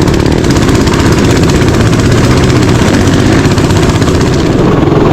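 Mini bike's small engine running steadily, loud and close.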